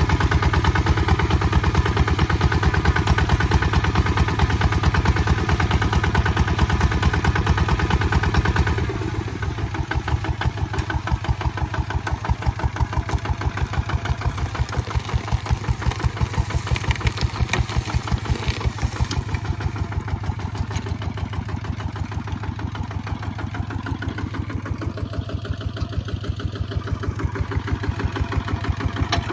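Kubota ZT155 DI single-cylinder diesel engine running with an even, rapid pulse. It drops in level about nine seconds in, then slowly builds again near the end.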